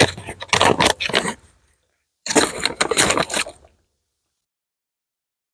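Hands working at the hive: two spells of crinkling and scraping handling noise, each about a second and a half long, then the sound cuts off dead.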